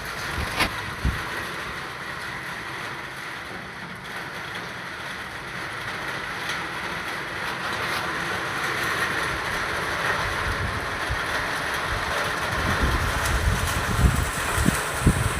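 Steady wind noise, with gusts buffeting the microphone in low thumps about a second in and again in the last few seconds.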